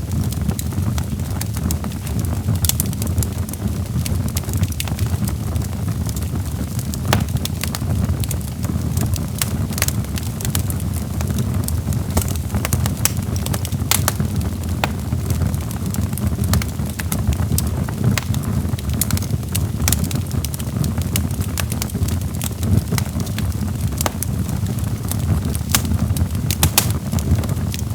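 Wood fire crackling and popping, with frequent sharp irregular snaps over a steady low rumble of the flames.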